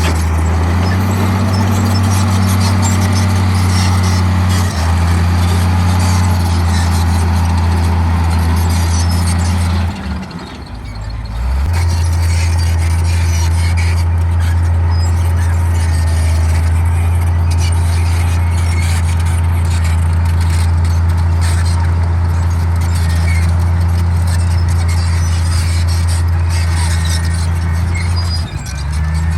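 Komatsu D58E crawler bulldozer's diesel engine running hard, a steady low drone with higher mechanical noise over it. The engine note steps up about a second in, drops away briefly around ten seconds in, then holds steady again.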